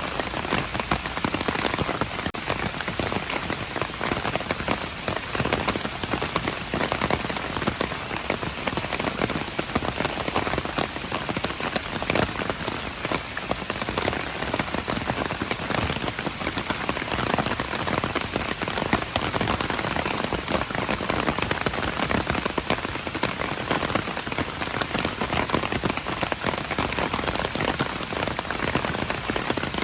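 Steady rain falling, a dense spread of individual drops striking close by. It holds an even level throughout.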